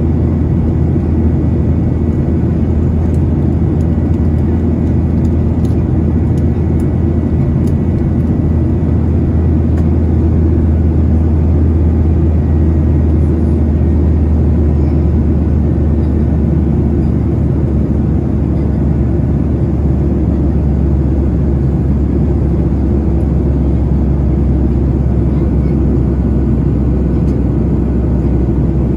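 Steady cabin noise of a Boeing 737-900ER in flight: an even rush of air and engine noise from its CFM56-7B turbofans, dominated by a deep, constant hum.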